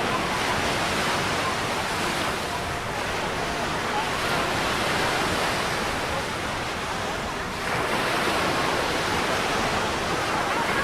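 Atlantic surf breaking and washing up the beach, a steady rush of water that swells and eases as waves come in every few seconds.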